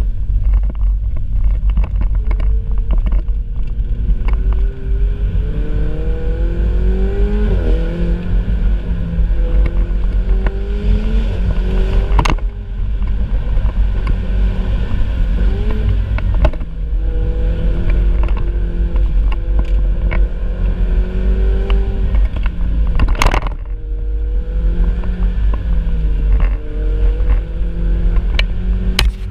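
Ferrari 488 Spider's twin-turbo V8 under way, its note climbing and dropping in pitch again and again, over a heavy low rumble. Two sharp cracks stand out, about twelve and twenty-three seconds in.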